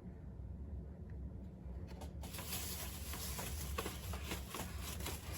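Rustling and small clicking taps as diecast cars and their packaging are handled, starting about two seconds in, over a steady low hum.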